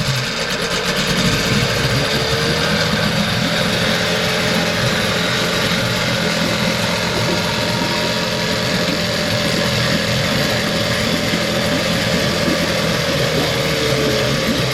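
1976 Evinrude 9.9 two-cylinder two-stroke outboard motor running steadily at idle just after a cold start.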